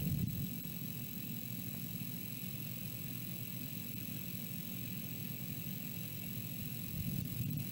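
Wind buffeting the nest camera's microphone: a steady low rumble that swells a little near the end.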